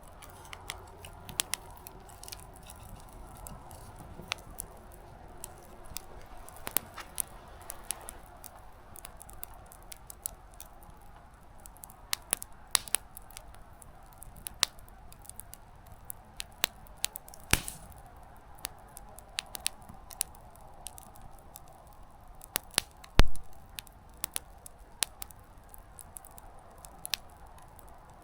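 Small wood campfire crackling: irregular sharp snaps and pops of burning firewood, with one louder knock about 23 seconds in.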